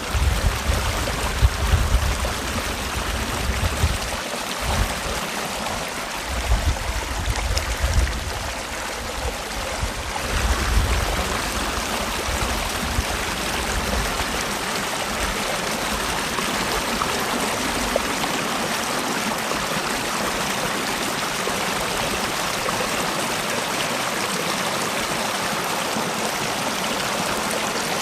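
Mountain valley stream flowing, a steady, even rush of water. For about the first ten seconds a low, gusty rumble comes and goes beneath it, like wind buffeting the microphone; after that the water runs on alone.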